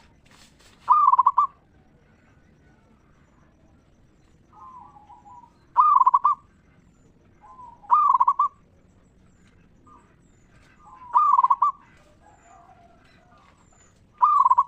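Zebra dove (perkutut) cooing: about five loud, rolling coo phrases a few seconds apart, with softer coos between them. A short burst of noise comes about half a second in.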